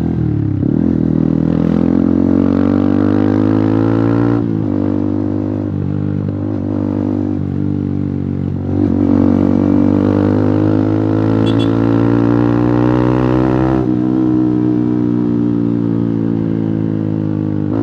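Yamaha R15 V3's single-cylinder engine through an Akrapovic exhaust with the dB killer removed, pulling hard under way. The pitch climbs, drops at a gear change about four seconds in, climbs again through a long pull from about nine seconds, and drops near the end as the throttle eases.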